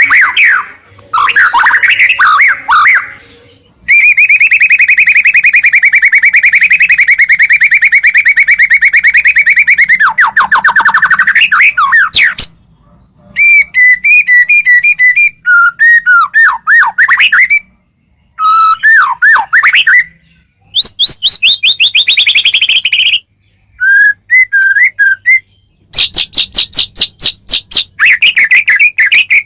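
White-rumped shama (murai batu) singing a loud, varied song of whistled phrases. A long, very rapid trill runs for about six seconds early in the song, followed by short runs of quick repeated notes with brief gaps between them.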